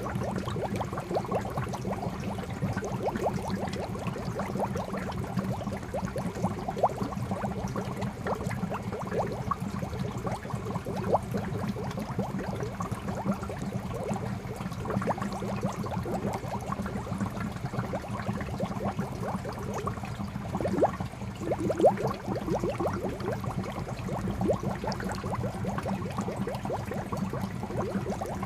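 Water from a spout pouring into a koi pond: a steady splashing with many small bubbling plops, and a couple of louder splashes about three-quarters of the way through.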